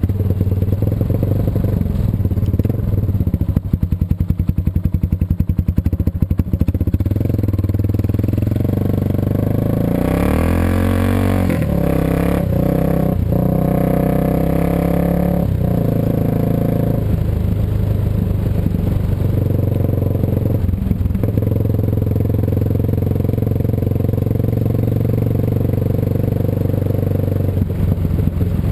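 Suzuki DR650 single-cylinder four-stroke motorcycle engine running on the move. It holds a steady note, then partway through its pitch rises and falls a few times before settling back to a steady cruise.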